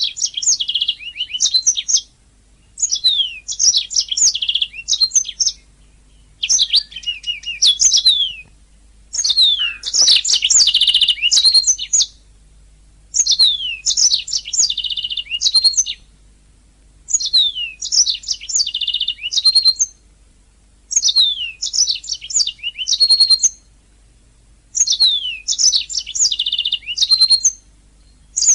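Domestic canary singing in repeated phrases of two to three seconds with short pauses between, about eight phrases. Each phrase opens with quick falling whistled sweeps and runs into rapid, buzzy trills.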